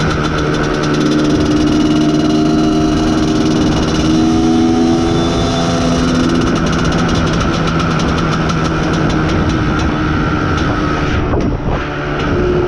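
IZh Planeta Sport's single-cylinder two-stroke engine running as the motorcycle is ridden during its break-in, the note shifting in pitch with the throttle. It briefly falls off about eleven seconds in, then picks up again.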